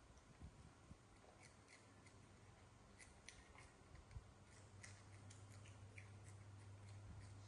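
Faint, sharp, irregular crunches of monkeys biting and chewing crispy wheel-shaped fried snacks.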